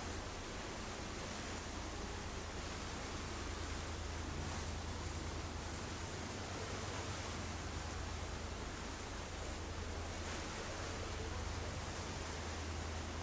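Steady rush of wind and sea water with a constant low drone from a sightseeing boat's engine.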